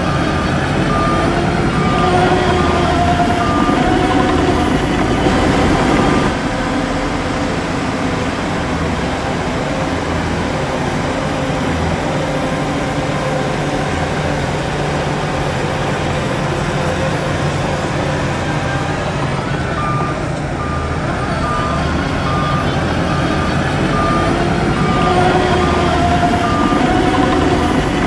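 Heavy diesel earthmoving machine running steadily under load, its engine note rising and falling. Its reversing alarm beeps about twice a second at the start and again from about two-thirds of the way through.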